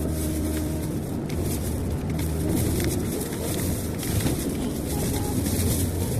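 Car cabin noise while driving at speed: a steady low engine and road drone with tyre hiss.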